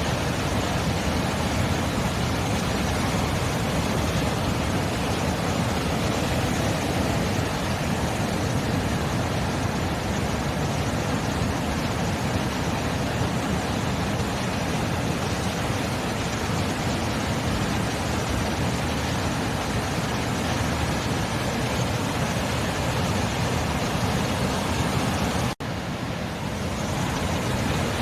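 Sea waves washing on the shore as a steady, even roar of surf, which cuts out for an instant near the end.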